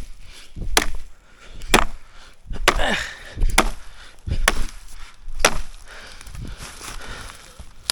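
An axe chopping firewood: about six sharp blows, roughly one a second, then the chopping stops a little past halfway through.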